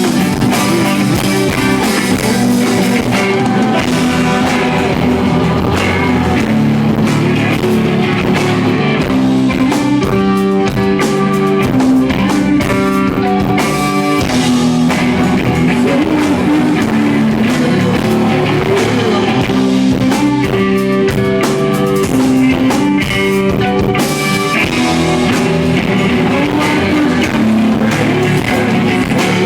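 Live rock band playing: guitars and drum kit in an instrumental stretch of a song, recorded from the audience.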